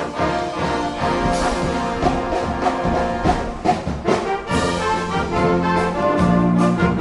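High school marching band playing live: a brass section of trumpets and trombones over a steady drum beat.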